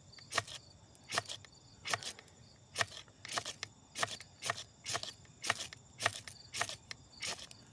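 Ferro rod (fire striker) being scraped again and again to throw sparks onto tinder: a dozen or so short, sharp rasping strikes, about two a second.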